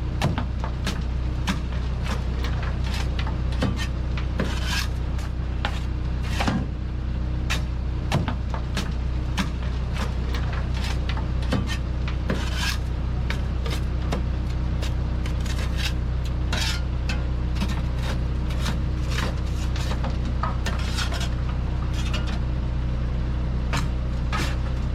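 Dump truck engine running steadily, with frequent sharp clanks and knocks over it.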